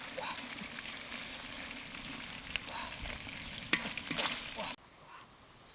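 Fish frying in a pan, a steady sizzle with a few sharp clicks and pops, cutting off suddenly near the end.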